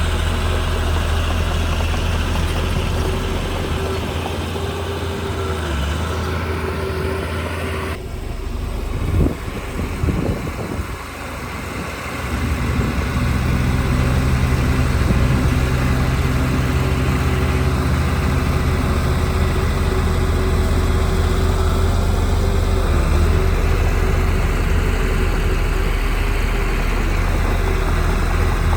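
Heavy earthmoving machinery's diesel engine running steadily. The sound changes abruptly about eight seconds in, a few knocks follow, and the engine then runs on louder.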